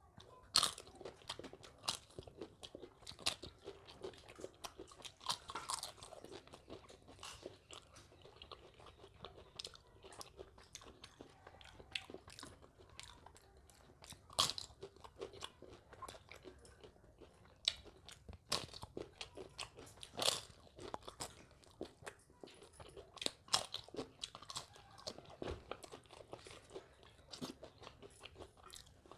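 A person biting into and chewing crisp fried papad: irregular sharp crunches, several of them louder, between quieter chewing.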